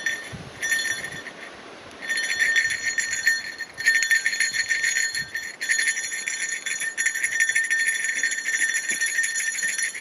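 Bear bell jingling continuously as it is carried and shaken, rung to warn bears of people on the trail; it goes quieter for a moment about a second in, then resumes.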